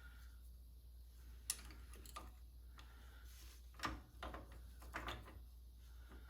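Scattered light metal clicks and taps from hand work on a Spartan locker's pins and parts inside a Chrysler 8.25 axle's differential, a few single taps then a small cluster about four seconds in, over a steady low hum.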